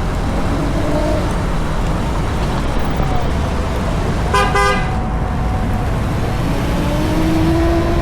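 City traffic with a steady low road rumble. About halfway through, a single short horn toot sounds.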